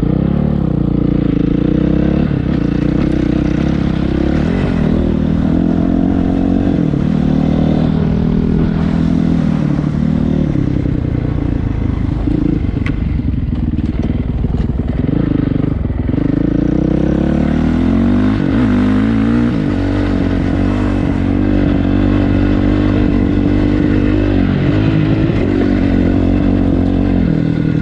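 Dirt bike engine running under changing throttle while being ridden, its pitch rising and falling with several rises in revs, including a long climb past the middle.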